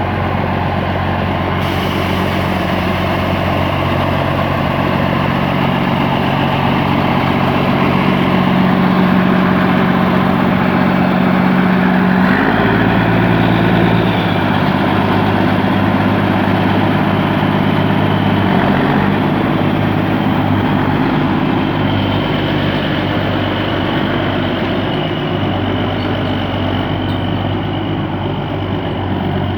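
DAF truck diesel engine swapped into a Kirovets K-700 tractor, running steadily; its note shifts briefly about halfway through.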